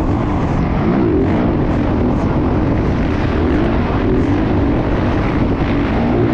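Motocross motorcycle engine running continuously, its pitch rising and falling as the throttle opens and closes.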